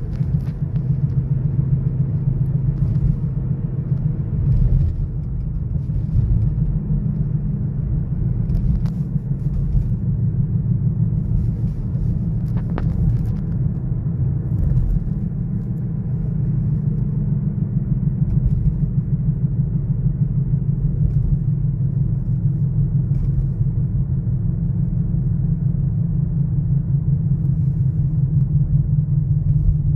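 Kia Sorento 2.0 gasoline four-cylinder engine running steadily: a low, even rumble with a fast pulsing beat.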